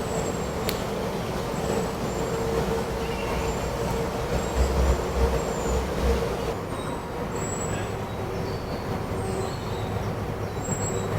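A steady low mechanical rumble with a constant hum, with a few heavier thuds about halfway through. Short, thin, high bird chirps repeat over it.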